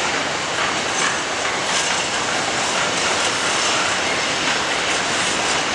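Freightliner intermodal container train rolling past, its loaded container wagons making a steady rumble with occasional clicks as the wheels cross rail joints and pointwork.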